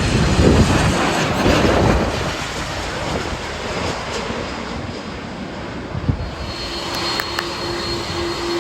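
Jet airliner engines running, a steady loud rush of noise that is loudest in the first two seconds. A steady hum comes in near the end.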